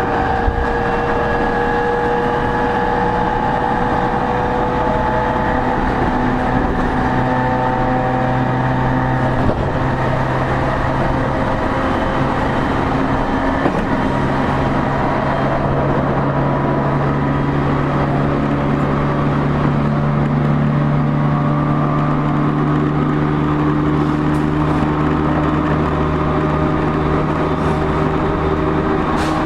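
E231 series commuter EMU running at speed, heard from inside a motor car. Several steady whining tones from the traction motors and inverter drift slowly in pitch over the rumble of wheels on rail.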